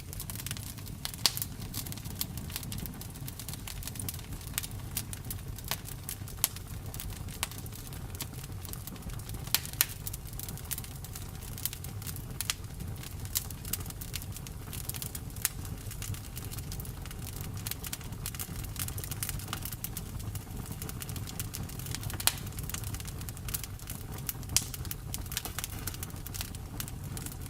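Campfire burning: a steady low rumble of flames with frequent irregular crackles and pops of burning wood, a few of them sharp and loud.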